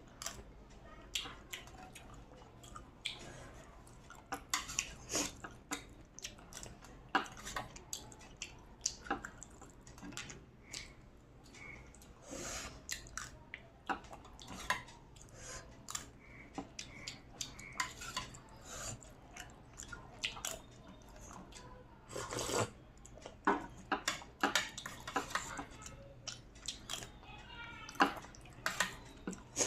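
Close-up eating sounds: wet chewing with irregular lip and mouth smacks, in clusters of quick clicks.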